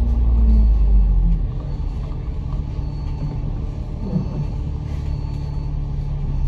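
Bus engine and road noise heard from on board, a low rumble that is heaviest for the first second and a half and then eases to a steady running drone.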